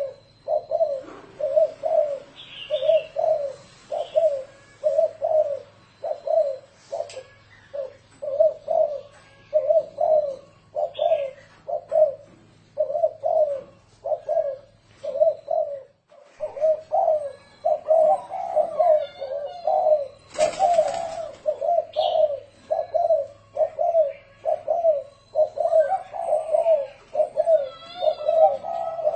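Spotted dove (cu gáy) cooing over and over in the rolling 'thổ rền' style used as a lure call, about one and a half short coos a second. A small bird chirps faintly now and then, and there is a brief rustle of noise about two-thirds of the way in.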